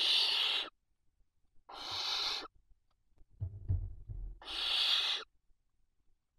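Barn owl giving three rasping hiss calls, each under a second long, with a low bumping scuffle of movement in the nest box between the second and third.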